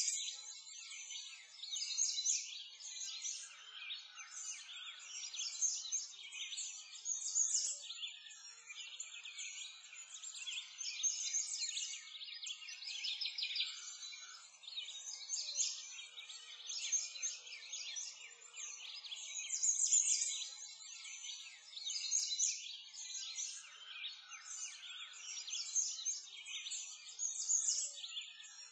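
Dense chorus of songbirds, many overlapping chirps and trills without pause, swelling every couple of seconds.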